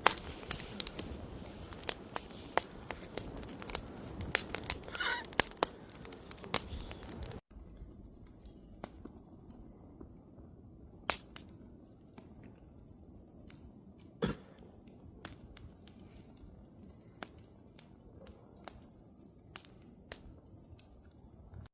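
Campfire crackling, with many sharp pops and snaps from the burning wood. About seven seconds in, it drops abruptly to a quieter, sparser crackle, with an occasional louder snap.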